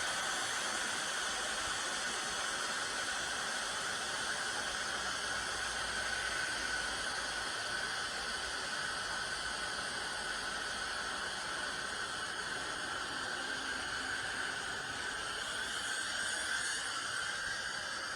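Steady background hiss with no distinct knocks, tool strokes or voices.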